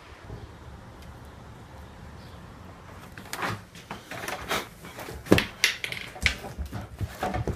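Faint wind noise, then from about three seconds in a fast run of irregular thumps and rustles of people scuffling.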